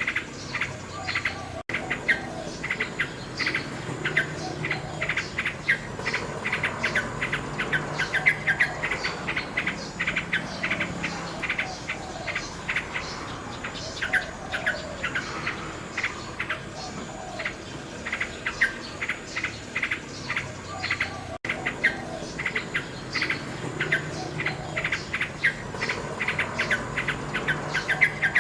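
Nightingale singing, with rapid repeated notes and trills over a dense, continuous chirping. The sound drops out for an instant twice.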